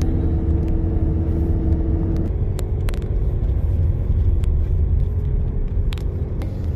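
Car engine running and road rumble heard from inside the cabin while driving, a steady low rumble with a hum. The engine note changes about two seconds in, and there are a few light clicks.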